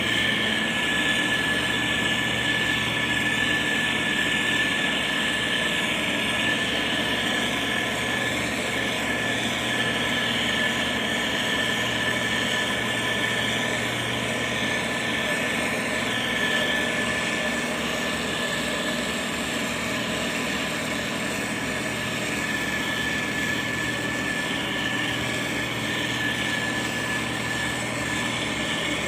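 Motor grader's diesel engine running steadily, with a constant high whine over the engine drone.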